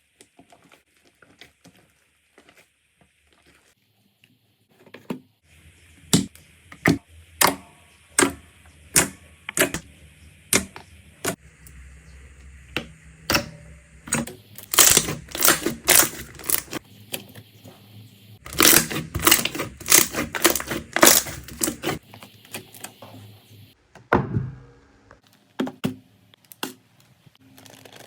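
Slime being pressed and squeezed by hand, making sharp wet clicks and pops. They come about once every two-thirds of a second, then in two quicker runs of many pops in the second half, after a quiet start.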